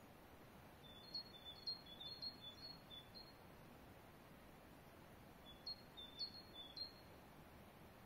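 Small songbird singing two runs of quick high chirps that alternate between two pitches, the first about a second in and the second around six seconds, over a faint steady outdoor hiss.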